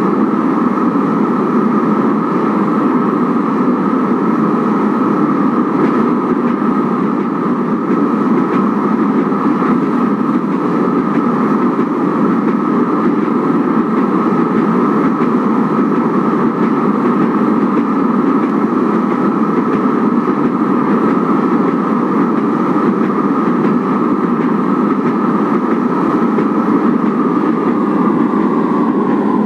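Third-generation Kinki Sharyo–Nippon Sharyo light rail train (1200 series) running steadily along the track, a continuous rumble of wheels and traction equipment. The pitch of the rumble drops slightly near the end.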